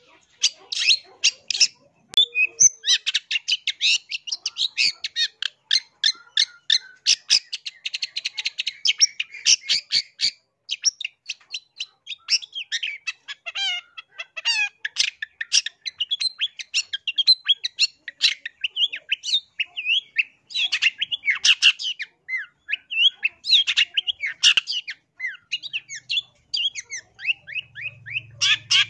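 Long-tailed shrike singing: a fast, nearly unbroken run of short high chattering and whistled notes, with a few brief pauses.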